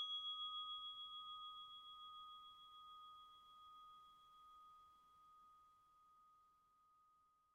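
A meditation bell rings on after a single strike, a clear high tone with a few overtones. It wavers in loudness as it slowly fades almost to nothing over about six seconds.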